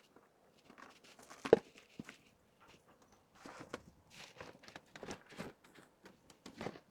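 Merchandise and packaging being handled while an order is packed: scattered rustles and light taps, with one louder knock about a second and a half in.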